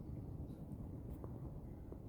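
Outdoor background noise: a steady low rumble, with a few brief faint high ticks or chirps.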